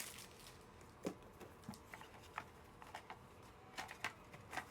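Sparse, faint clicks and taps from trading cards in hard plastic cases being handled, about one every half second to second.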